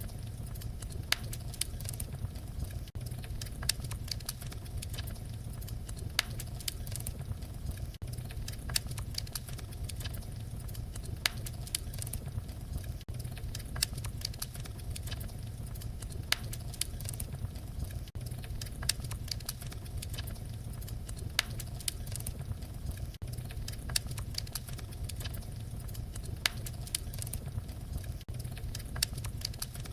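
Wood fire crackling: a steady low rumble of burning with frequent irregular sharp crackles and occasional louder pops.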